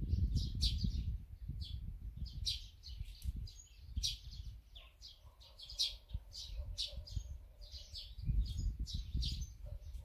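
Small birds chirping, many short high chirps in quick succession throughout, with bursts of low rumble near the start and again near the end.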